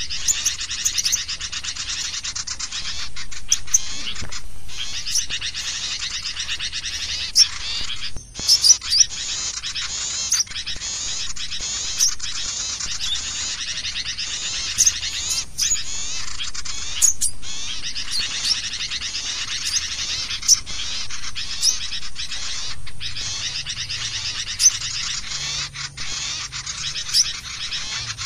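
Dense chorus of small songbirds chirping and chattering rapidly without pause, played as a bird-lure call (crecetan pikat) to draw in small birds. It has a few very brief gaps.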